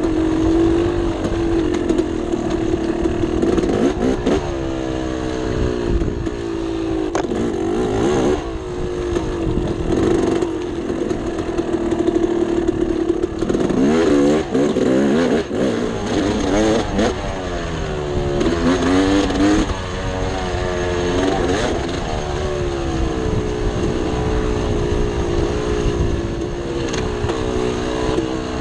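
Dirt bike engine running under way. The revs hold steady for stretches and rise and fall repeatedly with throttle and gear changes, most often in the middle of the clip.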